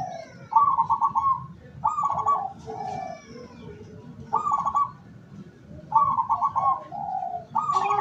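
Zebra doves cooing: about five short, loud trilled coo phrases, with softer, lower coos between them and faint high chirps from small birds.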